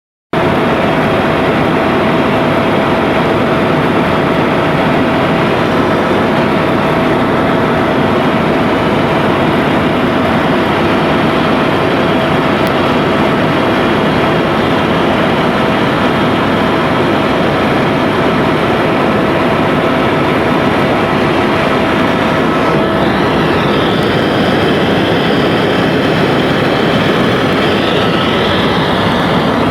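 Helicopter in flight: loud, steady rotor and engine noise with a steady whine, which gives way to a higher whine about 23 seconds in.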